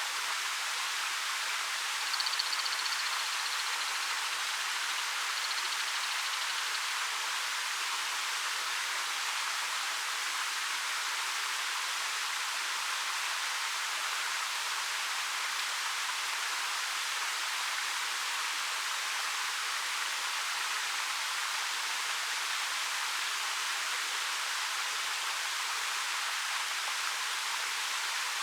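A 13 m waterfall pouring down a black rock face, a steady, even rush of falling and splashing water.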